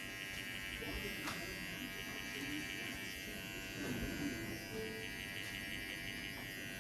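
TPOB GO electric hair clippers running with a steady, even buzz during a haircut.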